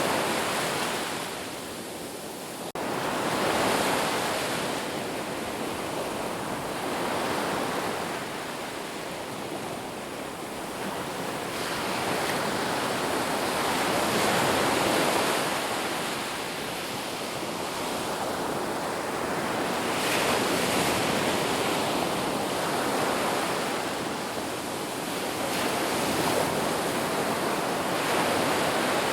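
Sea waves breaking and washing up the shore, a continuous rushing surf that swells and eases every few seconds.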